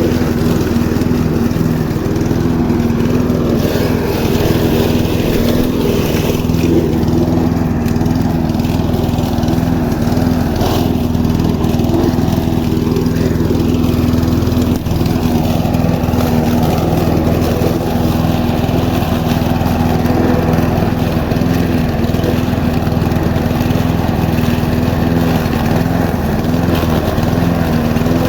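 Einhell Royal 46S petrol lawn mower running steadily, its engine note holding even.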